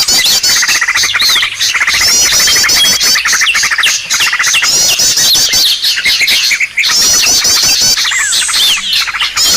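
A loud lure-call recording of many small birds calling at once: overlapping fast chirping trills, high rattling runs and short downward-sweeping whistles, repeating in bouts over and over.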